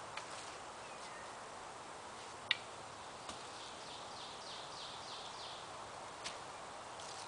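A bird singing a quick run of about six downward-slurred high notes midway, over a steady outdoor hiss. A few sharp clicks come through as well, the loudest about two and a half seconds in.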